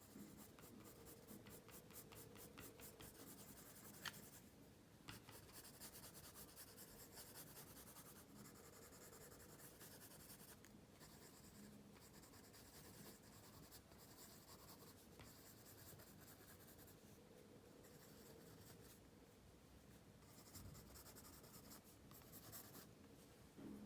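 Faint scratching of a pencil on paper, in runs of quick back-and-forth shading strokes at roughly four a second, with short pauses between runs. A single sharp tick comes about four seconds in.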